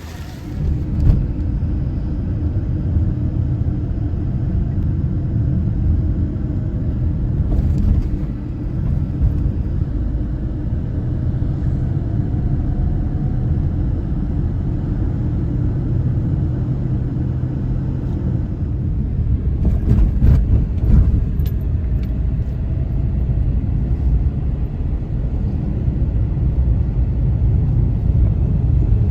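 Steady low rumble of wind buffeting the microphone beside rough surf, with a few short knocks about twenty seconds in.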